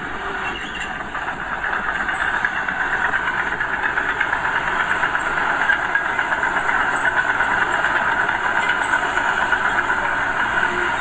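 Diesel engine of earthmoving machinery running steadily with a fast knocking rumble, growing louder about two seconds in and then holding.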